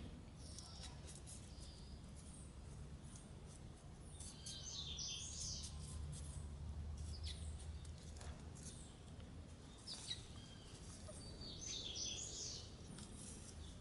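Birds chirping in the background, with two louder runs of calls about four seconds in and again near twelve seconds, over a steady low rumble of ambient noise.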